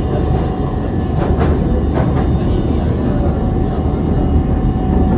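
CSR Zhuzhou 'AMY' light rail vehicle running on the line, heard as a steady rumble with a held whine, and a couple of faint wheel clicks over the rails about a second and a half and two seconds in.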